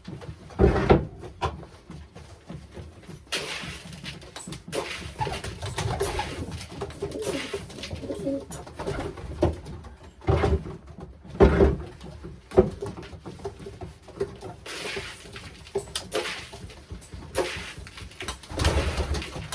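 Racing pigeons cooing repeatedly in their loft, with a few louder bumps and rustles in between.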